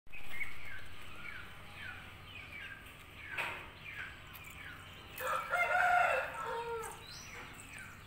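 Birds calling: a string of short falling chirps about two a second, then a longer, louder call with several notes about five seconds in, ending on a lower falling note.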